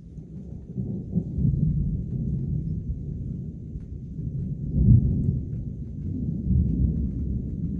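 Long roll of thunder from a strong multicell thunderstorm: a deep rumble that builds about a second in, peaks around five seconds and keeps rolling.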